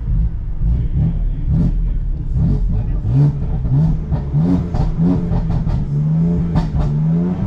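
BMW M3 F80's twin-turbo straight-six, heard from inside the cabin with the car standing still. It idles with a low rumble, then from about three seconds in is blipped up in a string of short rising revs, and near the end is held at steady revs that creep slowly upward.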